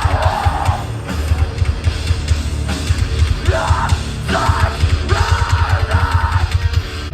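Live hardcore punk band playing loud, with distorted guitars, pounding drums and shouted vocals coming in bursts in the second half.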